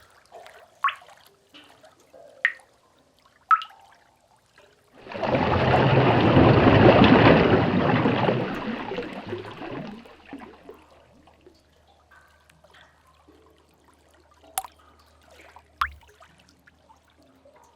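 Sea cave ambience: single water drips plinking at irregular intervals with a cave echo, and a wave surging in about five seconds in, swelling for a couple of seconds and then washing back out and fading over the next few seconds.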